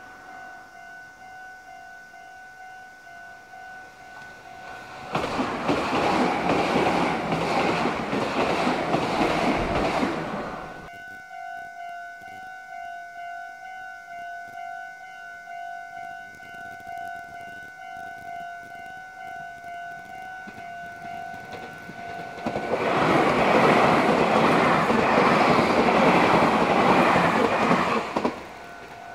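Two Meitetsu electric trains pass close by, each a loud rush of wheel and running noise lasting about five seconds. The first starts about five seconds in and the second near the end. Throughout, a level crossing alarm rings in a steady, pulsing two-tone ding.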